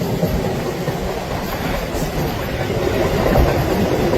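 A train running on the rails: a loud, continuous running noise that builds slightly toward the end.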